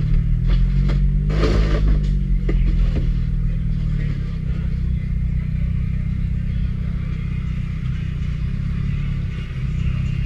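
A motor vehicle's engine running steadily at low speed. Several sharp clicks and a short burst of hiss come in the first three seconds.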